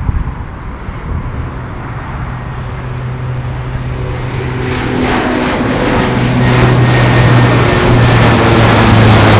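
Fixed-wing aircraft engines growing steadily louder as the aircraft approaches. A low steady hum with a few held tones builds into a loud rush from about halfway through, and a faint high whine comes in near the end.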